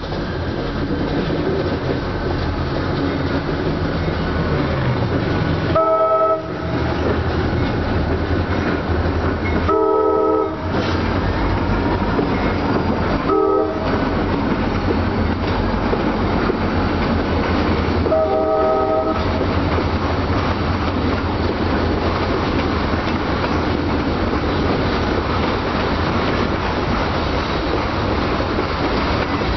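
Buffalo & Pittsburgh Railroad diesel freight locomotive approaching and passing, sounding its multi-note air horn four times: long, long, short, long, the grade-crossing signal. This comes over a steady rumble of engine and wheels. After it, loaded covered hopper cars roll by with a continuous rumble and clickety-clack of wheels on rail joints.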